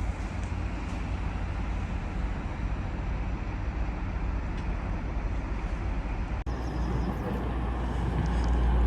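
Steady low rumble of a train at a station platform, with no horn sounding. It breaks off for an instant about six and a half seconds in, then comes back heavier and grows louder toward the end.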